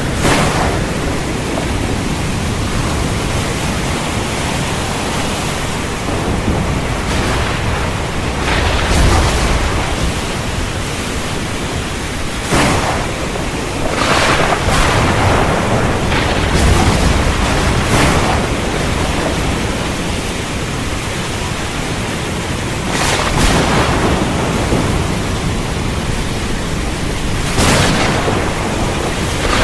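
Heavy rain falling steadily, with sharp cracks of nearby thunder several times and low rolling thunder rumbling in between.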